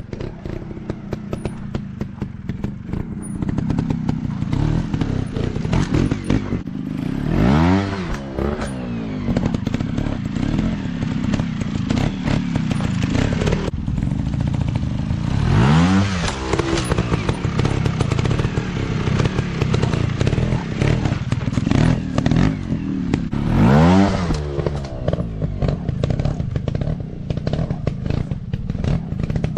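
Dirt bike engine working off-road, the revs rising sharply three times, roughly eight seconds apart, amid steady rattling and knocking.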